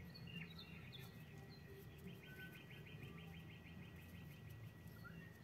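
Faint background birdsong: scattered short chirps and a rapid trill of about ten notes a second in the middle, over a low hum and a faint steady high tone.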